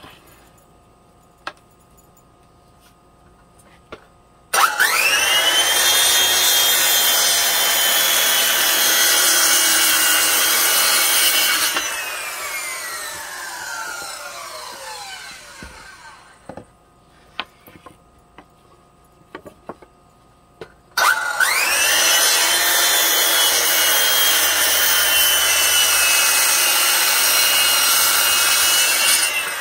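Electric power saw cutting a pine board, twice: each time the motor whines up to speed, runs steadily through the cut for about seven seconds, then spins down with a slowly falling whine. A few light knocks from handling the wood come in the pause between the two cuts.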